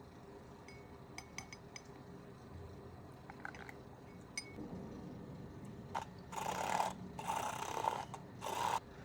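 Small clinks and clicks of utensils and containers being handled while matcha is prepared, then three short, louder scraping or rustling bursts near the end.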